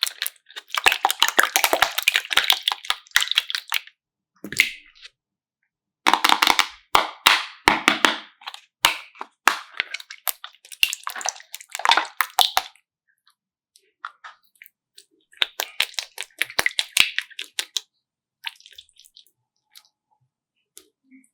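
Slime being squeezed and worked by hand, giving sticky crackling and popping in three bursts with short pauses between them.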